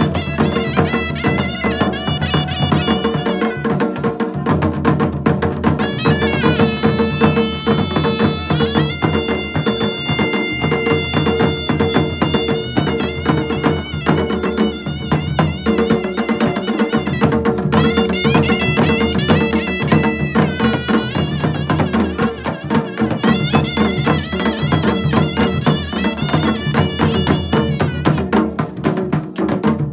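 Pahadi Nati folk music: fast, even drum and wood-block percussion under a lead melody of held, wavering notes over a steady drone.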